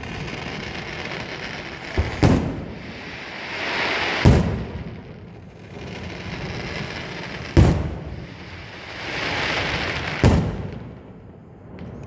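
Fireworks going off: single sharp bangs, a close pair about two seconds in and then roughly every three seconds, with a crackling hiss that swells and fades between the bangs.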